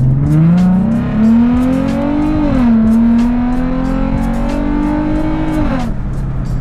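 Sports car engine heard from inside the cabin, accelerating hard: the revs climb steeply, dip briefly at a gear change about two and a half seconds in, climb again, then fall away as the throttle is released near the end.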